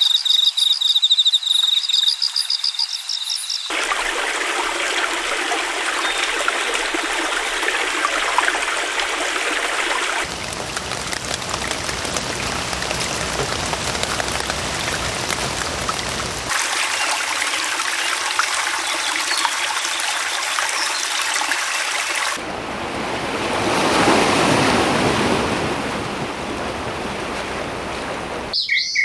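Running water from a stream, trickling and rushing, in several recordings spliced one after another with abrupt changes every few seconds; a bird trills rapidly for the first three and a half seconds, and one stretch of water swells and fades like a wave.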